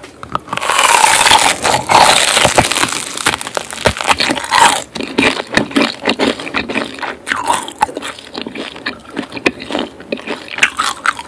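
Close-miked biting and chewing of crispy grilled beef large intestine (daechang), with loud crackling crunches for the first four seconds or so, then quieter chewing full of small wet crackles and clicks.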